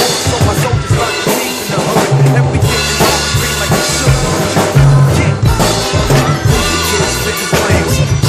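Drum kit played over a funky hip hop backing track: kick drum, snare and rimshots over the song's heavy bass line.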